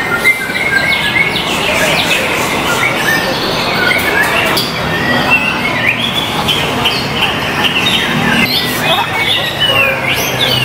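White-rumped shama (murai batu) singing a fast, varied run of whistles and chirps without pause, with other songbirds singing at the same time.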